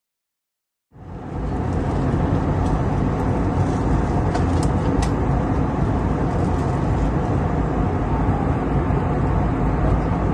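Steady engine and airflow noise inside a passenger airliner's cabin, cutting in suddenly about a second in after silence, with a few faint clicks.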